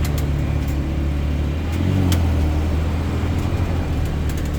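Lamborghini Huracán's V10 engine running steadily at low revs, swelling slightly about two seconds in, with a few faint ticks.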